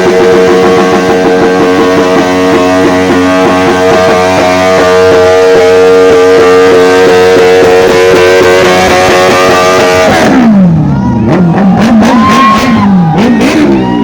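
Background music with steady held notes. About ten seconds in, the music gives way to a motorcycle engine whose revs drop sharply, then rise and fall in quick blips.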